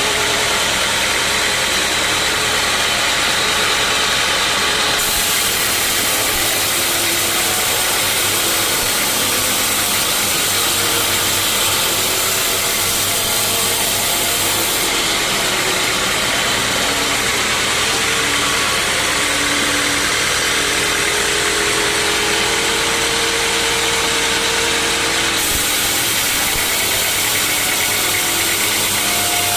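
Sawmill machinery running steadily while sawing teak logs: a loud, even machine noise with faint tones that shift in pitch.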